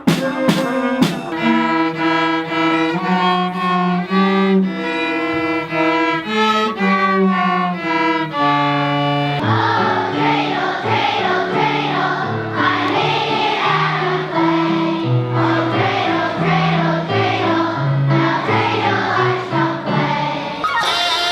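Music: a choir singing with bowed strings, in steady held notes. About nine seconds in, the sound changes to a denser, fuller passage.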